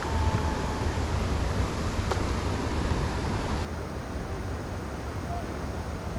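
Steady rushing noise of wind buffeting the microphone over moving water, with a single click about two seconds in. The sound turns abruptly duller a little before four seconds in.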